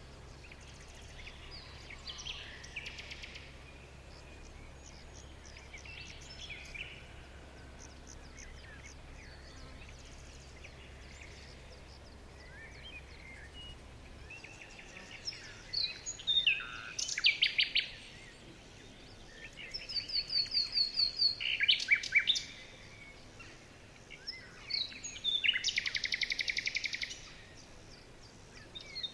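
Several songbirds singing in a forest. Faint calls at first, then from about halfway louder song phrases of rapid trills and quick downward whistles, with short pauses between them.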